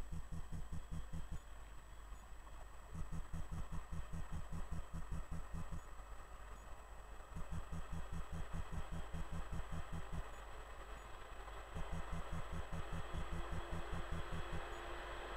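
Hector Rail electric locomotive and freight train approaching: a faint hum and a rising rumble build up over the last few seconds. Throughout, a low rapid pulsing comes and goes in spells of a few seconds.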